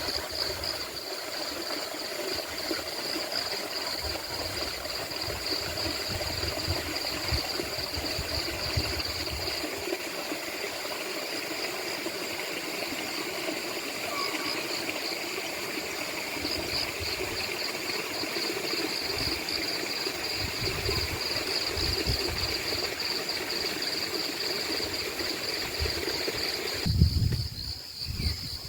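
Rainforest ambience: insects trilling steadily at a high pitch over the steady rush of running water, with low gusts of wind on the microphone. Near the end the water rush drops away, leaving the insects.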